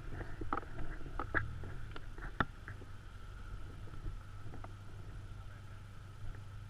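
Paintball markers firing in the distance: a few faint sharp pops in the first couple of seconds, over a steady low rumble.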